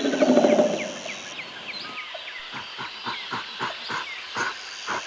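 Gorilla sound: a short low rough grunt, then a quick run of short hollow pops, about five a second, over high chirping birds.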